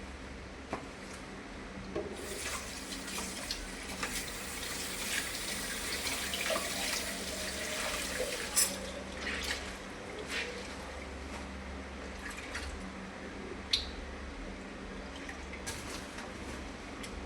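Tap water running into a sink while dishes are washed, with scattered clinks and knocks of bowls and cups. The running water is loudest in the first half and eases off later.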